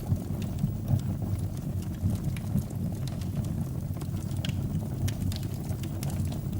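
Fire burning in a fireplace: a steady low rumble of flames with scattered small crackles and pops.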